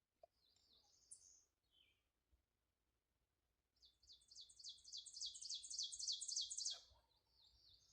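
Faint songbirds: a few short high chirps in the first two seconds, then a bird sings a fast run of repeated high notes, each dropping in pitch, for about three seconds.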